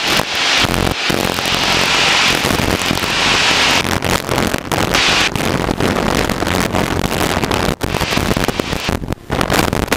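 Light training airplane's engine droning steadily in the cockpit, heard through the intercom under loud hissing noise that crackles and pops throughout.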